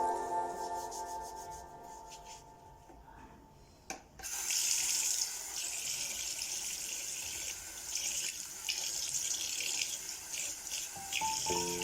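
Piano music fades out, then a click about four seconds in, and water runs from a tap into a sink, the flow uneven as it splashes. Piano music comes back near the end.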